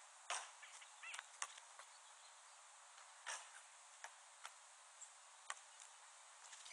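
Near silence, broken by a few faint scattered knocks and a brief faint chirp about a second in.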